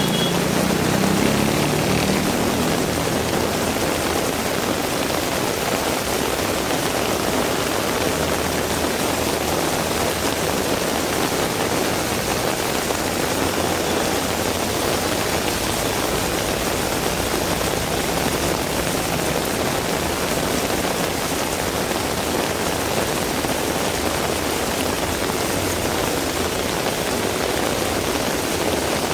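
Heavy rain falling steadily, an even hiss. In the first few seconds a low engine hum from a passing vehicle fades away.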